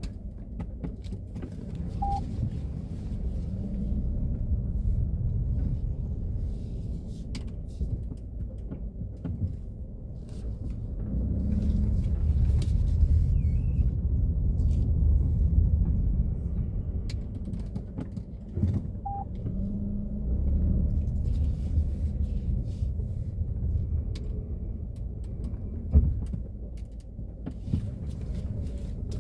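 Low, steady rumble of a 2017 Peugeot 3008 with its engine running while the steering is worked. Two short, high squeaks come from the steering, one a couple of seconds in and one about two-thirds through, with a single sharp knock near the end.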